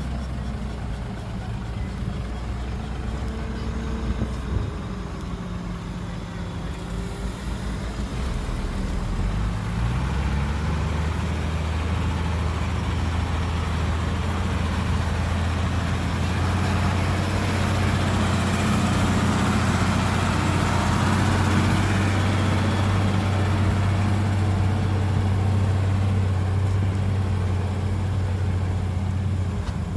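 Heavy diesel engine running. About nine to ten seconds in its pitch climbs, and it then runs steady and a little louder.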